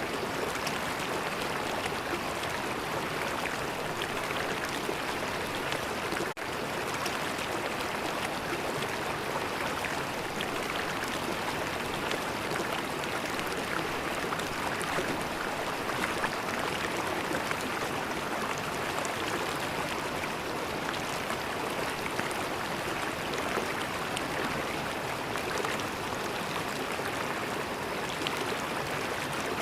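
River water flowing steadily, an even rush with no let-up. There is a momentary dropout about six seconds in.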